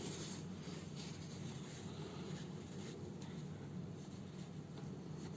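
Soft, irregular scratchy rustling of needle, thread and slipper fabric being handled while a house slipper is sewn up by hand, over a steady low hum.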